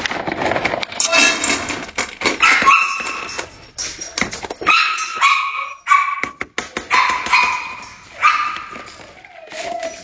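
A dog whining and yipping in several bursts of high, pitched cries: a dog waiting impatiently to be given its food.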